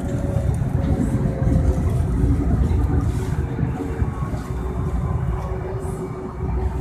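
Light-rail train running along the track, heard as a steady low rumble with a faint steady hum over it, easing slightly toward the end.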